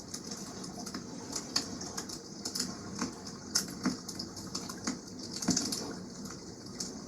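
Wood campfire crackling, with irregular sharp pops and snaps over a steady wash of water in the background. About five and a half seconds in there is a louder rush of hiss.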